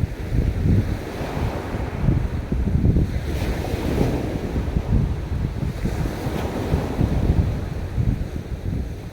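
Waves breaking and washing on a beach, with wind buffeting the microphone. The surf swells in brief washes, about three seconds in and again around six seconds.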